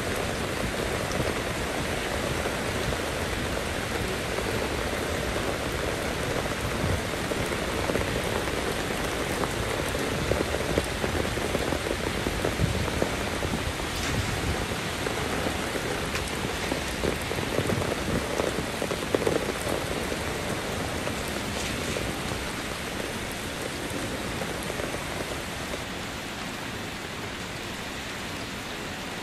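Steady rain falling, a dense patter of drops, easing a little over the last few seconds.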